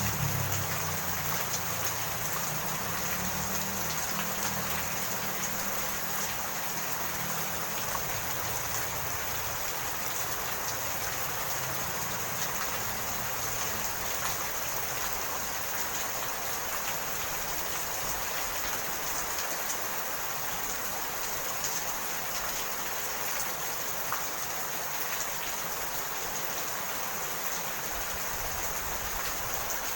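Steady rain falling, an even hiss with scattered drop ticks. A low rumble fades out in the first few seconds.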